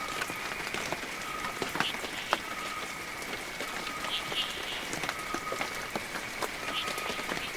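Heavy rain falling steadily, thick with the sharp taps of individual drops. Over it runs a steady high-pitched whine, and a short high note repeats about once a second.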